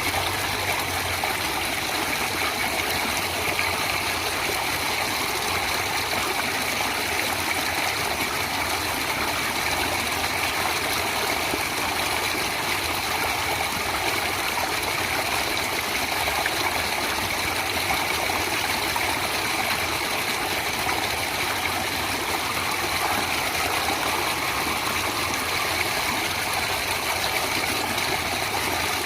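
Water running in a natural stream, a steady, unbroken rush.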